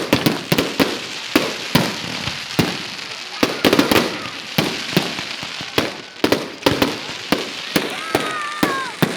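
Fireworks going off: dozens of sharp bangs and cracks in quick, irregular succession over a continuous crackle, with a couple of falling whistle-like tones near the end.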